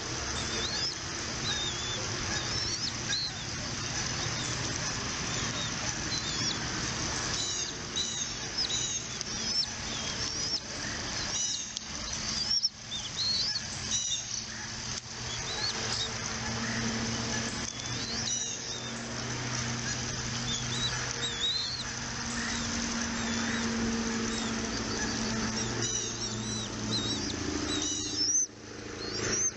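Birds chirping: many short, high chirps repeated throughout, over a steady low hum and background noise.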